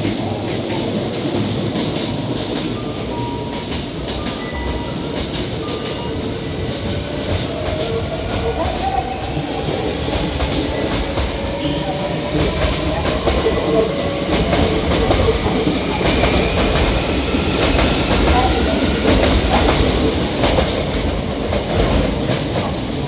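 Hankyu 1300 series electric train pulling away, its inverter-driven traction motors giving a whine that steps, then glides steadily upward in pitch as it accelerates. Wheels knock over the rail joints more and more often, and the sound grows louder as the cars pass.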